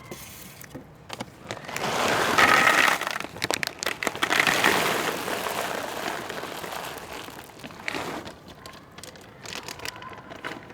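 A plastic bag of dry cat food crinkling and rustling with many sharp clicks. It swells a second or two in, is loudest for a few seconds, then tapers off into scattered clicks.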